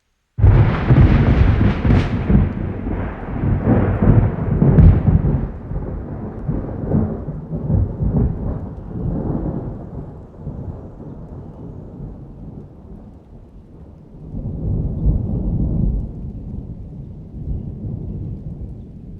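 A thunderclap bursts in suddenly about half a second in, then rumbles on and slowly fades. A second swell of rumbling comes near the end.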